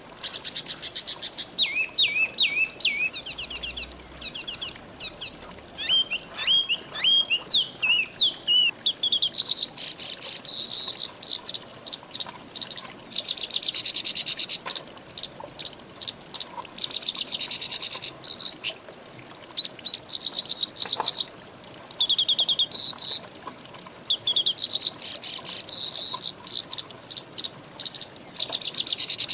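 Songbirds singing: fast runs of chirps and trills in repeated phrases, one after another, over a faint steady high hiss.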